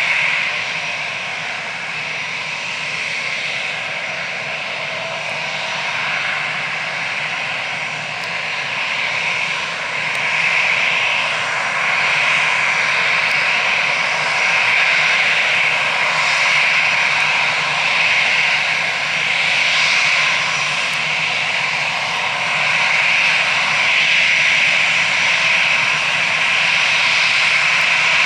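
Airbus A320's twin CFM56 turbofan engines running, a steady jet noise strongest in a high hissing band, growing louder about ten seconds in.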